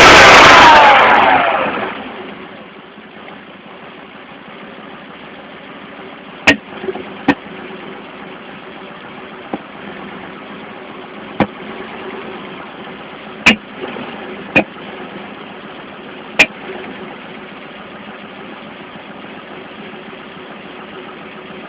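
Car engine with its revs falling away over the first two seconds, then idling, broken by sharp single pops every one to three seconds. The pops are the sign of a misfire.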